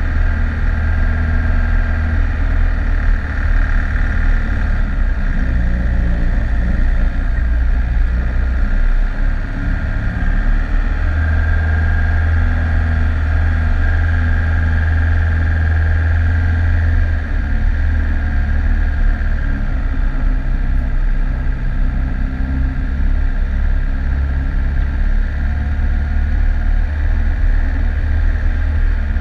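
Four-wheel drive's engine running steadily while driving along a rough dirt track: a strong low drone that rises and falls a little with the throttle.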